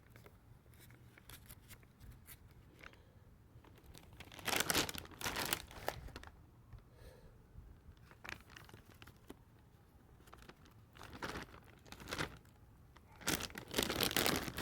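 Plastic and foil packaging of a self-heating meal being crinkled and torn in several short bursts, with quiet pauses between them.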